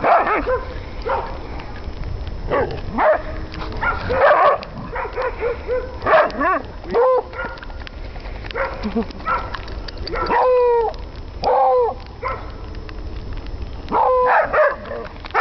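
Dog barking and yipping in short, high calls, a dozen or so coming at irregular intervals, some dipping in pitch, over a steady low rumble.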